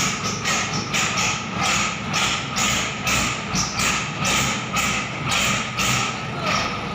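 A steady low engine hum, as of a tractor idling, under a regular series of short rasping or scraping sounds about twice a second.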